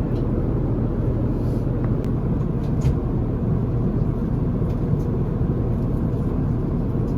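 Airbus A350 cabin noise in flight: a steady low rumble of engines and airflow, with a few faint clicks.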